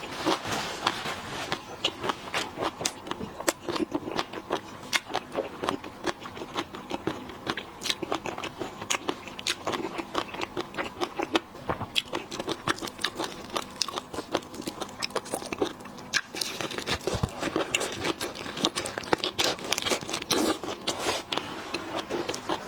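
Shellfish being bitten and chewed, with a dense run of sharp cracks and crackles of shell, several a second, and the mouth sounds of chewing.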